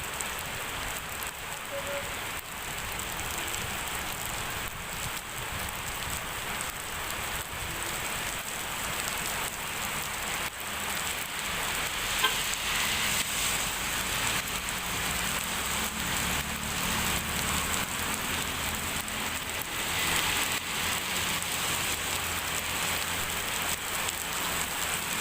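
Heavy rain pouring down steadily, a dense hiss of drops falling on hard surfaces, with a faint low rumble in the second half.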